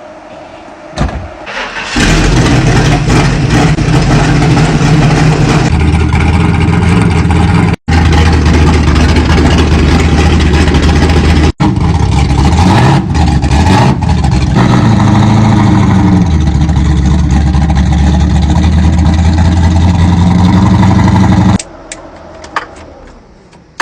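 Drag car engine started with a push button about two seconds in, then running loud and steady. Around the middle its revs rise and fall a few times, and it is shut off a couple of seconds before the end.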